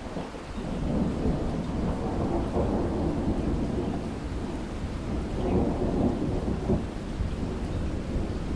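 Rain falling during a thunderstorm, with a deep rumble of thunder that builds about half a second in and swells and fades several times.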